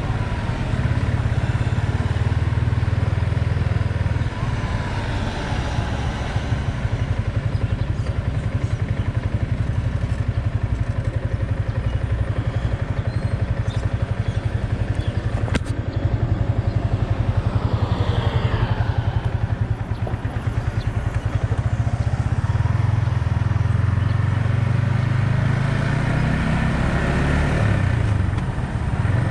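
Yamaha XSR 155's single-cylinder engine running as the motorcycle is ridden on city roads, heard through the rider's camera mic over a steady rumble. The engine note rises and falls a few times as the speed changes.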